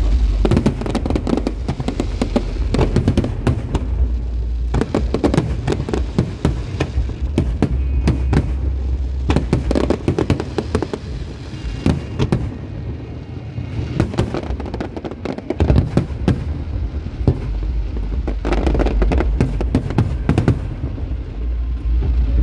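Aerial fireworks display: a dense, continuous run of bangs and crackles from many shells bursting close together, over a deep low rumble.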